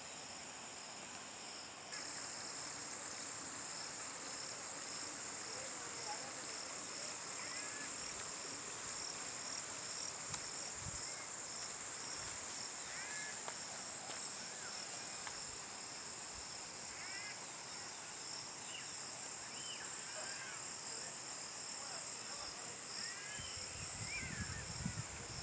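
Crickets and other insects trilling steadily in several high-pitched pulsing layers, a little louder from about two seconds in. Short high chirps from small birds come and go over it, and a few low thumps sound near the end.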